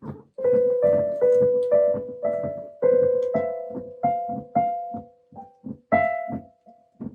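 Piano notes struck one at a time in an uneven, halting rhythm, mostly the same few neighbouring notes repeated.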